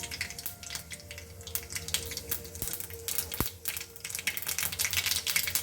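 Mustard seeds spluttering and popping in hot oil in a pan: a dense, irregular crackle of small pops.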